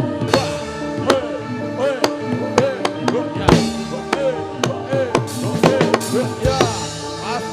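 Javanese gamelan playing jathilan accompaniment: steady ringing metallophone notes over quick, busy drum strokes whose pitch bends up and down.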